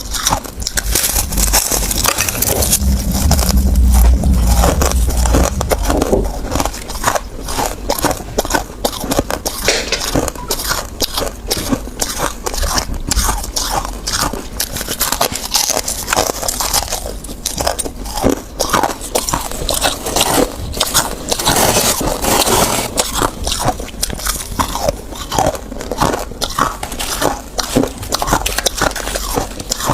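Close-miked biting and crunching of hard ice: rapid crackling crunches one after another, with a low rumble for a few seconds near the start.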